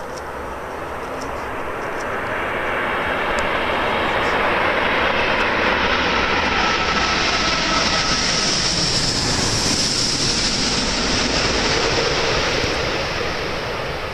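Jet airliner engines passing close by: a wide rushing roar that swells over the first few seconds, holds loud through the middle with a high hiss, and begins to fade near the end.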